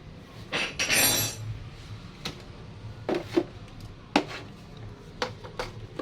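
Metal tools and parts clinking and tapping: a short jangling rattle about a second in, then a string of separate clicks and taps.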